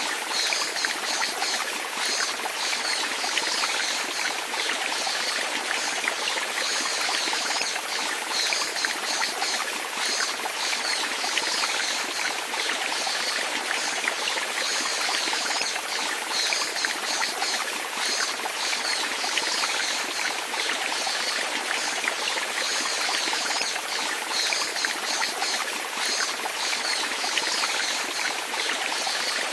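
Water flowing steadily, with an even, bright splashing that never pauses.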